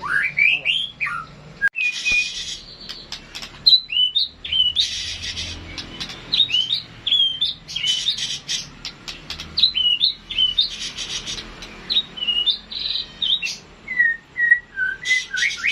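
White-rumped shama singing: a continuous run of short whistled notes that sweep up and down, mixed with harsh, rasping bursts.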